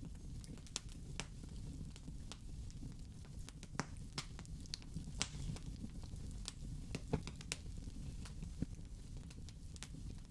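Wood fire burning in a fireplace: a steady low rumble of the flames with irregular sharp crackles and pops of burning wood, a few louder snaps scattered through.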